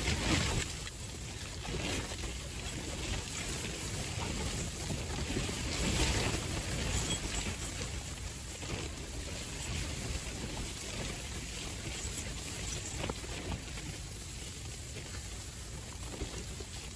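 Strong wind buffeting the microphone: a steady rushing rumble that swells in gusts, strongest about half a second in and again around six seconds.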